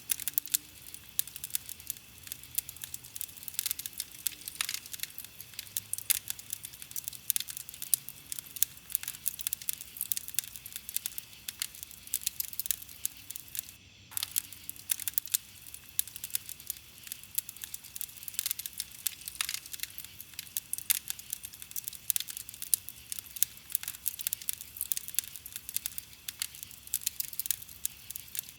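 Burning wood crackling and popping: a dense, irregular run of sharp snaps over a soft hiss, with a split-second break about halfway through.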